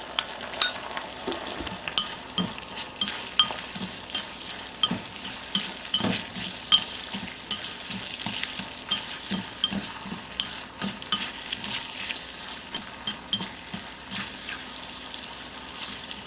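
Pork belly pieces sizzling in a hot clay pot of caramelized sugar and shallots as they are stirred with chopsticks: a steady sizzle with frequent irregular clicks and taps of the chopsticks against the pot.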